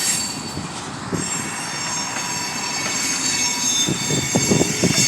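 Train rolling along the track with its steel wheels squealing on the rails: a cluster of high squeal tones comes in about a second in over the steady rumble of the cars.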